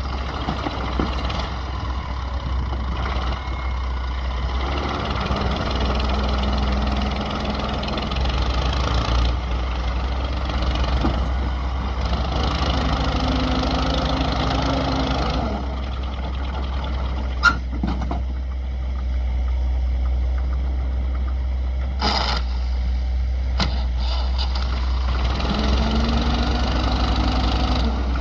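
Massey Ferguson MF 240 tractor's diesel engine running steadily, with a sharp knock about seventeen seconds in and the engine note rising a little near the end.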